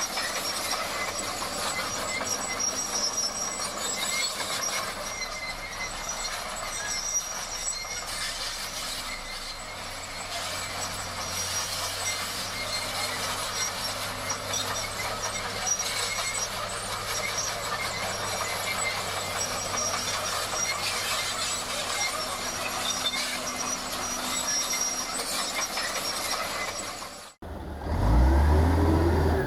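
Heavy earthmoving machinery at work: a steady mechanical clatter and hiss with a faint high squeal. Near the end it cuts off abruptly and a louder, deep engine sound begins, rising and falling in pitch as it revs.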